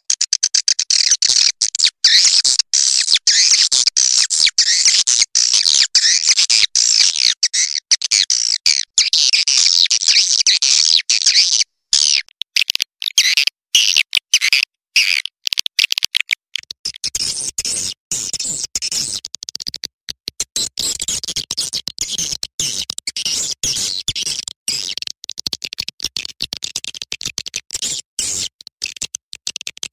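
Swiftlet calling-sound track: a dense, high twittering chatter of swiftlet chirps, chopped by many brief gaps. It is a lure recording of the kind played to attract swiftlets. From about halfway through, lower sound joins the chirping.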